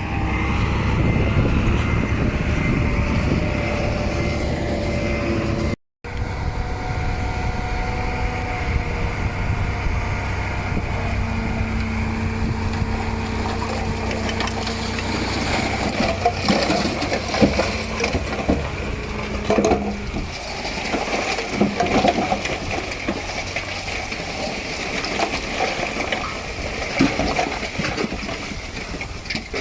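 Diesel engine of heavy earthmoving machinery running steadily, with a held whine over the low engine note. Later on, irregular crunching and rattling from dirt and rock being moved joins it.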